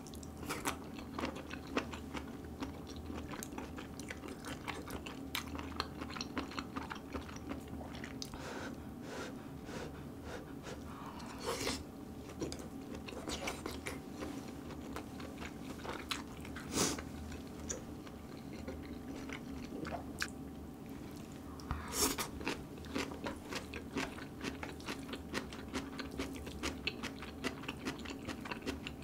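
Close-miked chewing of grilled marinated duck rib meat: continuous mouth sounds with many small clicks and a few louder, sharper ones spread through.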